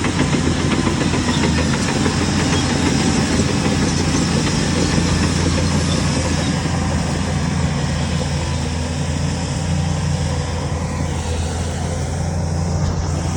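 Heavy diesel engine of earthmoving machinery running steadily, a little quieter in the second half.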